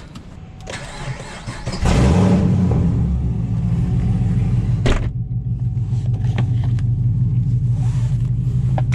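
5th-gen Camaro SS's 6.2-litre LS3 V8 with long-tube headers and a loud exhaust starting up. About two seconds in it catches with a loud flare, then settles into a steady, deep idle.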